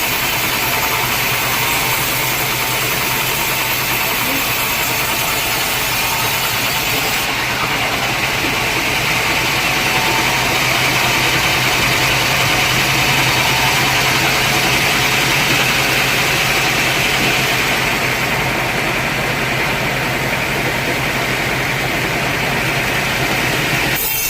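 Sawmill machinery running steadily: a constant low hum with a loud hiss over it. The sound changes abruptly just at the end.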